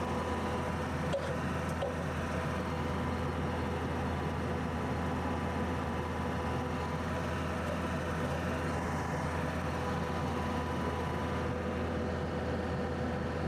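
An engine running steadily at a constant speed, with a low hum and a steady tone over it.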